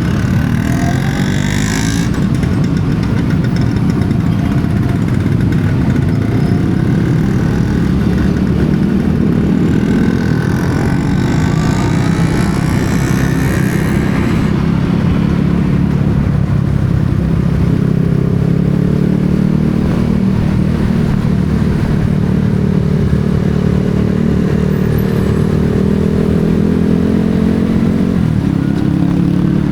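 Motorcycle engine running while riding on the road, its pitch drifting up and down as the speed changes.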